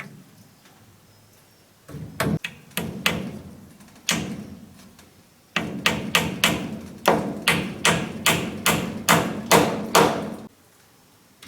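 A hand tool striking wood in repeated blows. A few scattered strikes come about two seconds in, then a steady run of about a dozen, two to three a second, which stops abruptly near the end.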